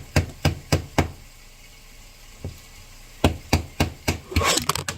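Knife chopping on a wooden cutting board: two runs of steady knocks, about three to four a second, with a single knock between them.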